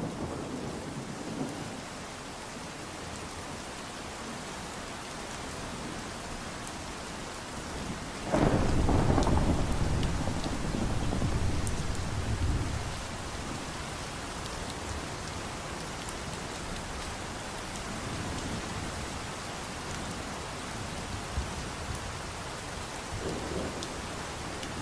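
Steady rain falling, with a few faint drip ticks. About eight seconds in, a roll of thunder starts suddenly and rumbles for about five seconds before fading. A softer rumble of thunder comes near the end.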